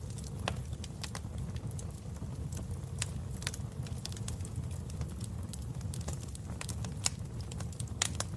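Wood fire burning in a fireplace: a steady low rumble of flames with irregular sharp crackles and pops from the burning logs, two louder pops near the end.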